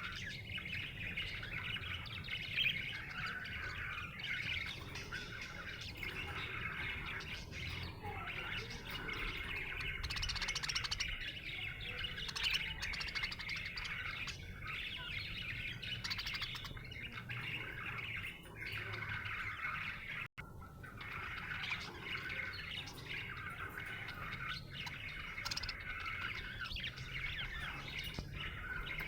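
Budgerigar chirping steadily, a dense run of chirps that breaks off for an instant about twenty seconds in.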